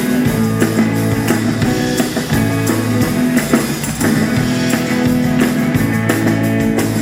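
Rock and roll band playing live, an instrumental passage between sung lines: guitar over a steady drum-kit beat.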